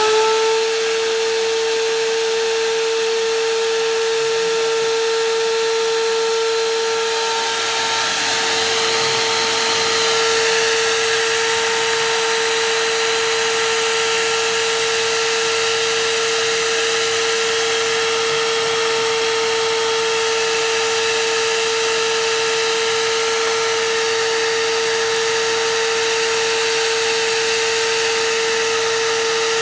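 Electric vacuum cleaner running steadily: a constant high motor whine over a rushing airflow hiss. The pitch rises slightly in the first moment as the motor comes up to speed.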